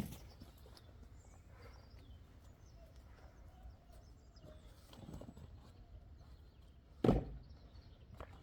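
An axe striking wood: a sharp knock right at the start and one loud chop about seven seconds in, with fainter knocks and rustling between.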